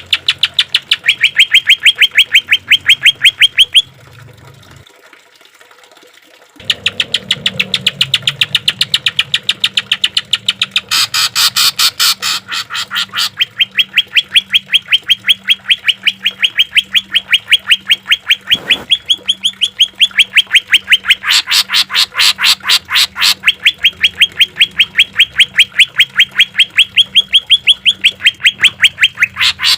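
Cucak ijo (green leafbird) song in rapid-fire 'tembakan' runs: long trains of sharp, loud repeated notes at about ten a second. There is a short break of a few seconds about four seconds in.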